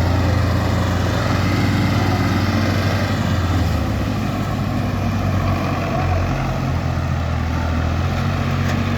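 Diesel tractor engine running steadily, its low note dropping slightly about four seconds in.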